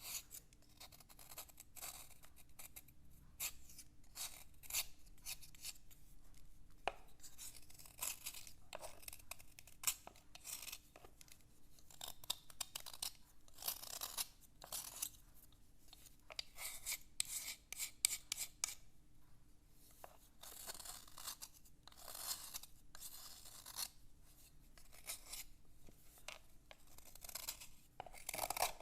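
Scratching and rubbing on a writing slate: many short, irregular scraping strokes in quick succession.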